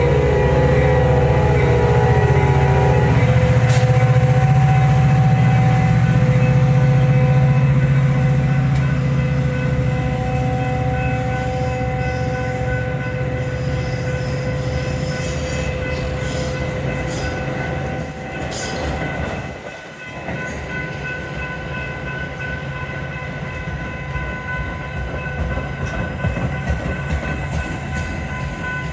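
Metra diesel commuter train at a station: the locomotive's horn sounds a chord for about the first three seconds over the steady drone of the engine, then the train's running noise and steady whine slowly fade.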